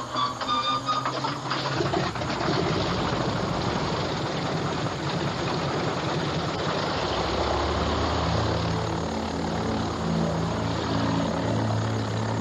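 Harvard Mk VI's Pratt & Whitney R-1340 radial engine starting up: a dense noisy spell as it turns over and catches, then about seven seconds in it settles into steady low-pitched running.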